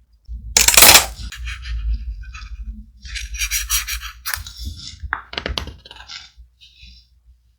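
Thick paper handled close to the microphone: a loud crinkling rustle about a second in, then bursts of crackling and sharp clicks and taps as the sheets are shifted and pressed.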